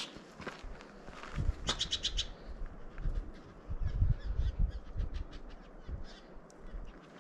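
A bird gives a quick harsh call, a run of about six rapid notes about two seconds in, over footsteps on the trail.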